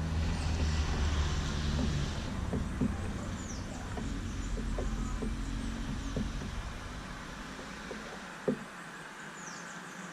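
A motor vehicle passing by, its low engine hum loudest in the first couple of seconds and fading out over the next several. A few short, downward-sweeping bird chirps and a single sharp knock shortly before the end.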